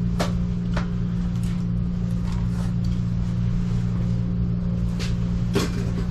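A steady low mechanical hum, with a few sharp clicks and knocks of handling: two near the start and two near the end.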